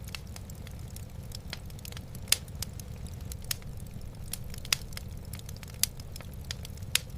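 Wood fire in a fireplace crackling, with irregular sharp pops, several louder ones spread through, over a steady low rumble.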